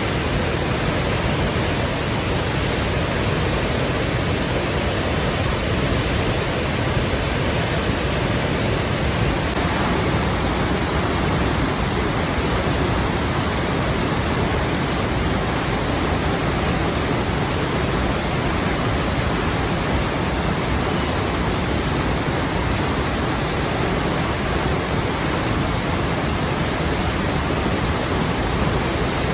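Rushing water flowing steadily: a dense, even hiss without breaks or changes in loudness.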